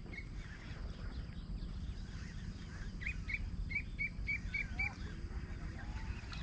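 A bird calling outdoors: a quick run of about seven short chirps, about three a second, over a steady low background rumble.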